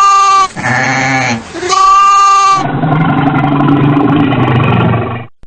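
Bleating livestock (sheep or goat type): three pitched, wavering bleats in quick succession. About two and a half seconds in, the sound cuts to a long, rough, low-pitched roar from another animal, which stops abruptly near the end.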